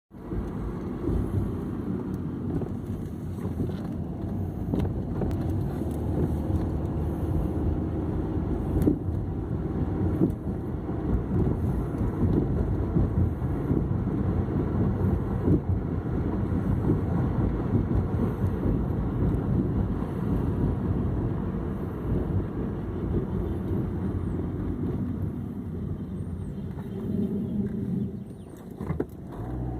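2006 Hyundai Accent in motion, with a steady low rumbling grind from the driver-side wheel.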